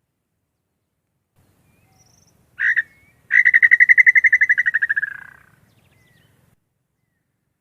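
Male inhambu (tinamou) call: one short note, then a long rapid trill held on one pitch, about a dozen pulses a second, that slides slightly down and fades out.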